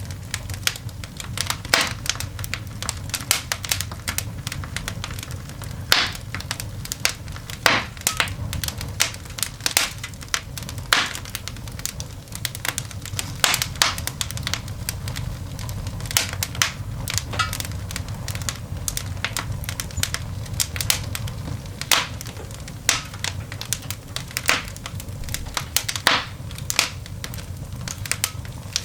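Open coal fire in a cast iron dog grate crackling and popping: frequent irregular sharp cracks over a low steady rumble.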